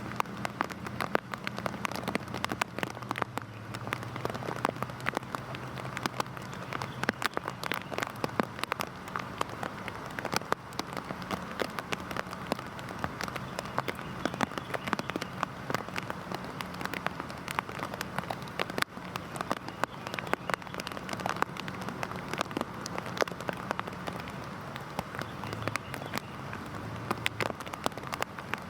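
Heavy rain falling steadily, a dense patter of drops with many sharp individual drop hits on a hard surface.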